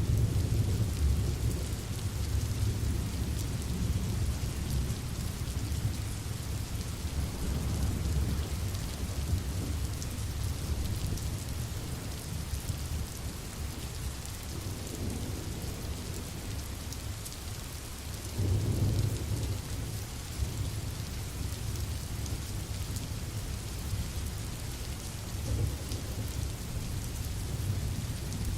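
Steady rain falling, under low rolling rumbles of thunder that are heaviest at the start and swell again about two-thirds of the way through.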